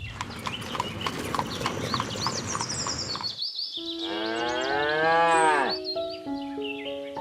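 A cow mooing once, a long call of about two seconds that rises and then falls in pitch, about halfway in. A rushing noise comes before it, and bird chirps run over the top.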